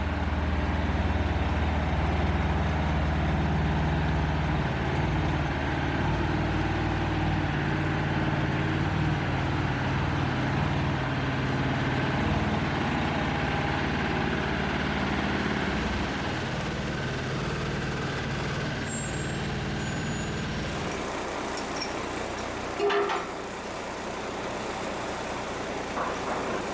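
Heavy lorry's engine running steadily, its note dropping away about 21 seconds in, followed by a single clunk a couple of seconds later.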